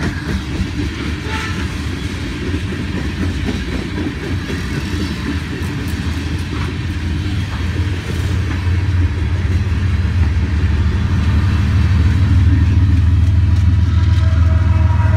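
Freight train of open-top freight cars rolling past close by, with a steady rumble and clatter of wheels on the rails. From about halfway in, the low drone of diesel locomotives at the rear of the train grows louder, joined near the end by a steady whine.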